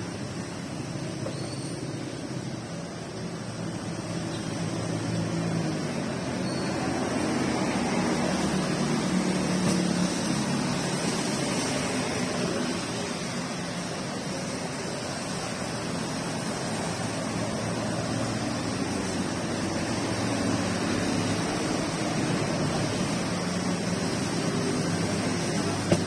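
Steady rain falling, with a low engine hum from passing traffic that swells and fades twice.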